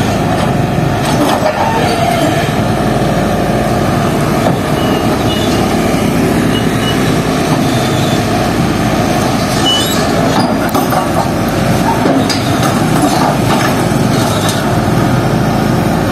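Heavy road-works machine running loudly while it breaks up a road surface, a steady mechanical din with brief metallic squeals and clanks.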